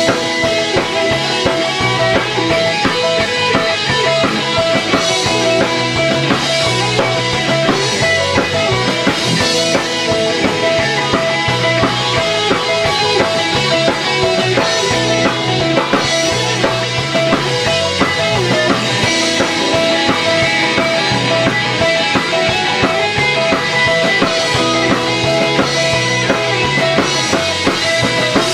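A rock band playing live: distorted electric guitars over a drum kit, with a steady beat.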